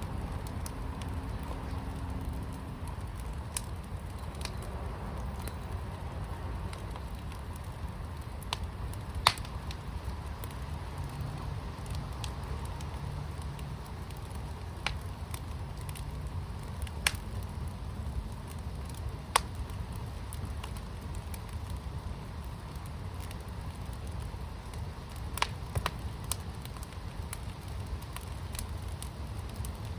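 Fire pit burning with a steady low rumble and irregular sharp crackles and pops, a dozen or so, every few seconds.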